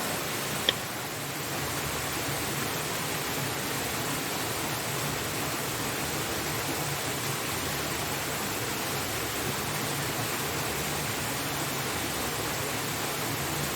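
Steady rushing of a waterfall, an even wash of falling water. A single sharp click sounds less than a second in.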